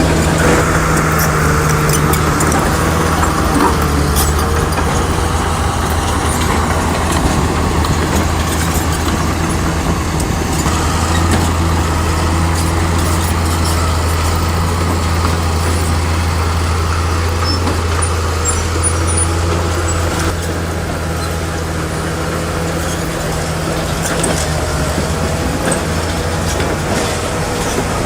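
Heavy diesel engine of a SHANTUI crawler bulldozer running steadily with a low, even hum, its level easing slightly about two-thirds of the way through.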